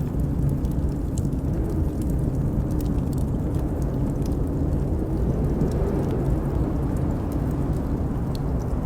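Steady low wind noise from a blizzard, with scattered small crackles and pops from a wood fire in a fireplace over it.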